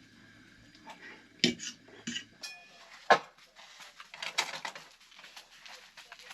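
Dishes and cutlery clinking and knocking together: a few sharp separate clinks, the loudest about three seconds in, then a short burst of clatter a second later.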